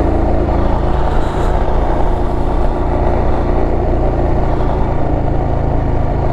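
Motorcycle riding along at steady speed: the engine running under constant wind noise on the microphone.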